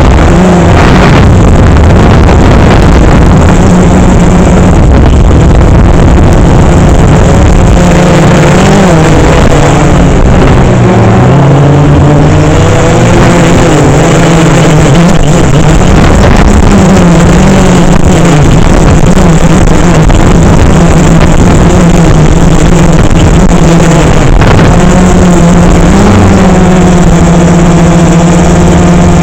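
DJI Phantom 3 quadcopter's motors and propellers buzzing loudly in flight, with pitch shifting up and down as it manoeuvres, then holding steadier near the end. Wind noise blows across the microphone.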